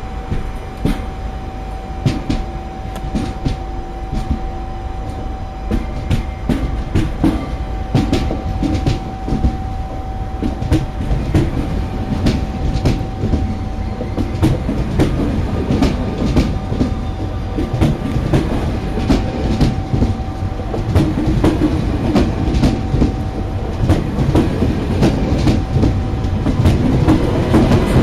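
TGV Duplex double-deck high-speed train rolling past at low speed as it pulls out, gathering speed. It makes a steady rumble with irregular wheel clicks over the rail joints that come faster and louder, and a steady whine that fades out near the end.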